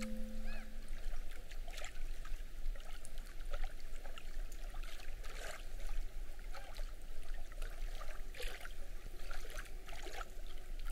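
Lake water lapping and splashing gently in small, irregular bursts. A held musical note fades out in the first second.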